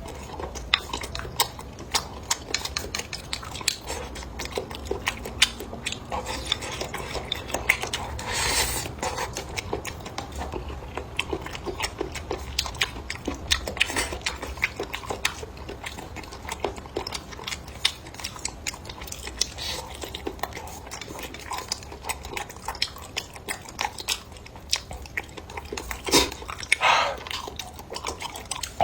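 Close-up eating sounds: chewing and biting, with frequent sharp clicks of utensils against dishes.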